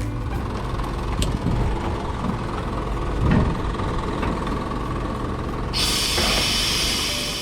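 Diesel engine running with a steady low rumble and a few knocks. About six seconds in, a loud hiss of air starts and keeps going.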